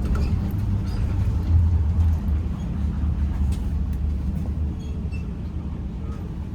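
Low, steady rumble of a moving vehicle. It swells about one and a half seconds in and eases off after about five seconds.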